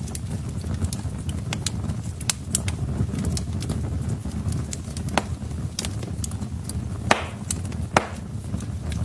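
Wood fire crackling in a fireplace: irregular sharp snaps and pops over a steady low rumble, with two louder pops near the end.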